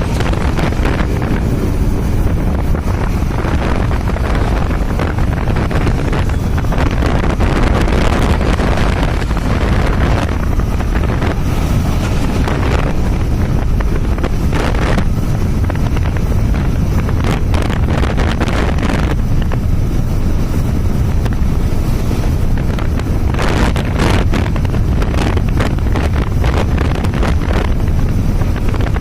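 Wind buffeting the microphone on a moving vehicle, a steady low rumble of wind and road noise.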